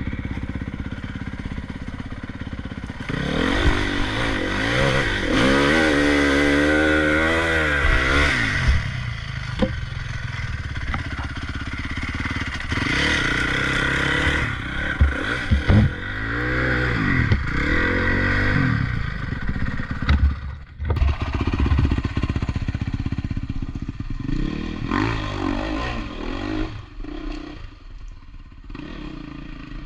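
Motocross bike engine revving hard in repeated throttle bursts, its pitch sweeping up and down over several seconds at a time, with a few sharp knocks in between.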